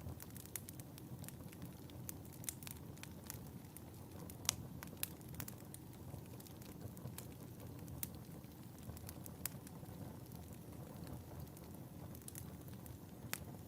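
Wood fire burning in a fireplace: a steady low rumble with irregular sharp crackles and pops, the loudest about four and a half and five seconds in.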